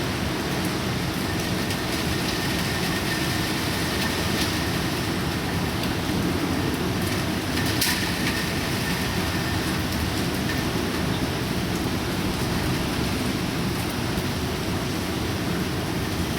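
Typhoon rain and wind: a steady heavy rushing noise with a low rumble beneath it, and a couple of sharp taps about four and eight seconds in.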